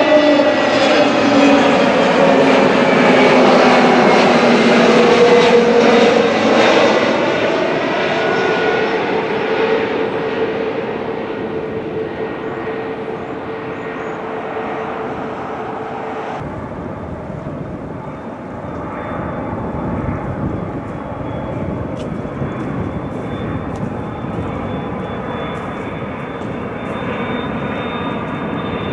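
Jet airliner passing close, its engine tones sliding down in pitch as it goes by and then fading. About two-thirds of the way through the sound changes abruptly to a steadier jet-engine noise with a thin high whine, growing louder near the end.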